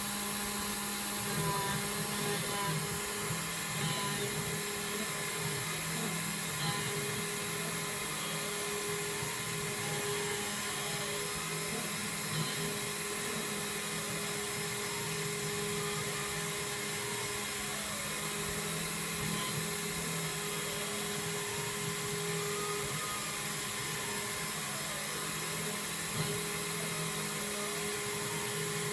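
Home-made CNC router's spindle whining steadily as a 1 mm end mill cuts 6082 aluminium, with stepper-motor tones repeatedly rising and falling as the axes move.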